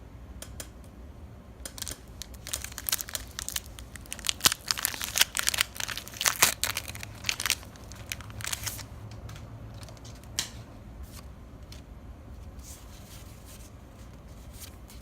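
Foil wrapper of a Pokémon trading card booster pack crinkling and tearing open: a dense run of sharp crackles for several seconds, loudest in the middle, thinning to a few scattered crinkles near the end.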